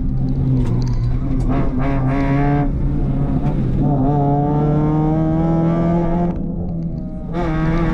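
Rally car engine heard from inside the cabin under hard acceleration, its pitch climbing steadily. It dips briefly about six and a half seconds in, a lift off the throttle or a gear change, then pulls again.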